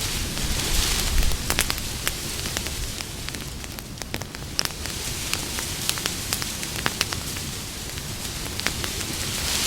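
Campfire burning, wood crackling and popping in irregular sharp snaps over a steady hiss, with the hiss swelling briefly about a second in.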